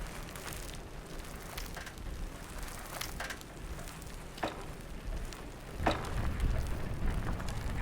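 Bicycle tyres rolling over a rough surface, with scattered crackles and crunches. Wind rumbles on the microphone, louder from about six seconds in.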